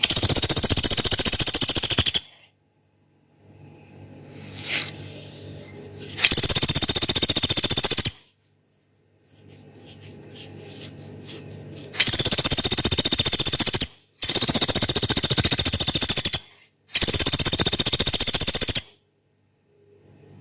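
Pelatuk beras, a small woodpecker, giving long, rough, very fast trills: five bursts of about two seconds each with short pauses between.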